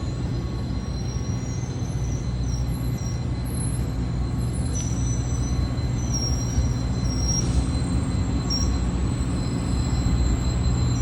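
Train running past with a steady low rumble, and short high-pitched wheel squeals coming and going several times.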